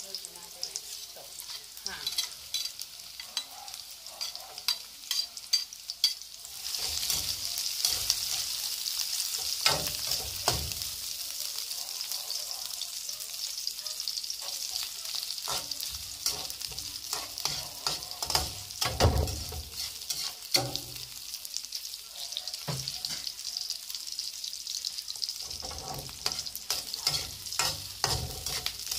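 Onion, garlic and diced ham sizzling in hot oil in a wok, the sizzle getting much louder about a quarter of the way in. A spatula scrapes and knocks against the wok again and again as the food is stir-fried.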